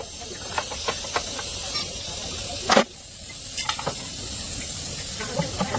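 Steady hiss with scattered clicks and a single loud knock nearly three seconds in. Near the end an engine starts running with an even, knocking rhythm.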